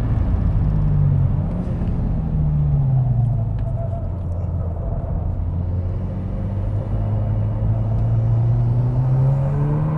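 Mk2 SEAT Leon Cupra's turbocharged 2.0-litre four-cylinder engine working hard on track, heard inside the cabin over tyre and road noise. The engine note climbs, drops back about three seconds in, then builds steadily again toward the end as the car accelerates.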